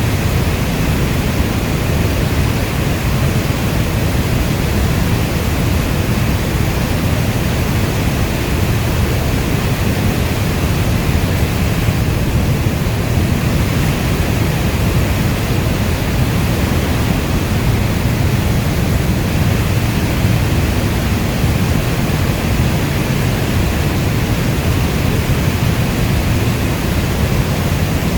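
Heavy rain falling steadily as a dense, even wash of noise, weighted toward a deep low rumble, with no separate drops or thunder standing out.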